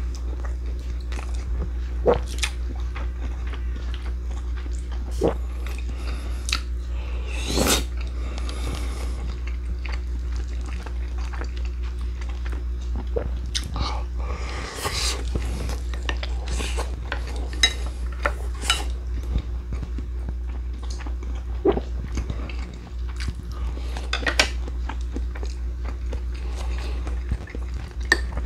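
Close-up chewing and biting of food, with scattered short clicks of utensils against dishes. A steady low electric-fan hum runs underneath.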